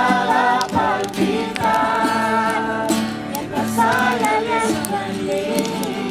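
Singing of a Christian worship song over musical accompaniment.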